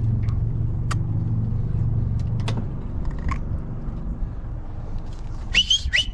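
Boat's outboard motor running at low speed, a steady low hum that eases off about halfway through, with a few faint clicks and a couple of short high chirps near the end.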